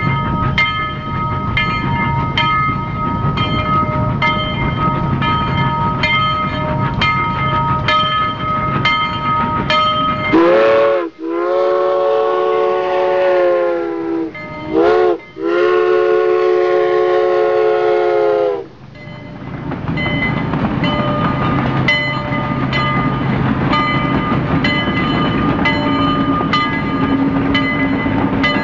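Trains at station platforms: running noise with a steady high whine and regular ticking about twice a second. About ten seconds in, a train horn sounds twice, each time a brief blip and then a held note of three to four seconds.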